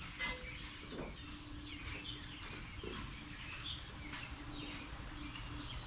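Birds chirping in short calls over outdoor background noise, with a few light clicks.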